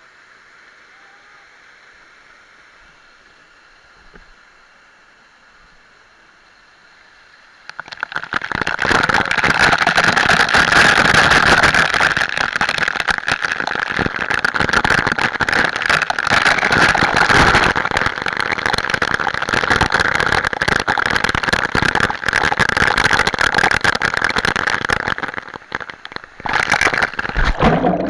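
Waterfall's rushing water, a faint steady hiss at first, then suddenly loud and close about eight seconds in, with a dense crackling spray noise that eases briefly near the end.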